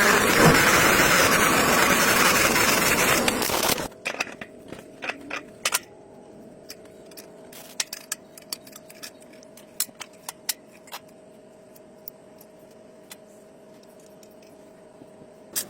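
A restored car engine running loudly, cut off abruptly about four seconds in. Then a quiet stretch of scattered short metallic clicks over a faint steady hum.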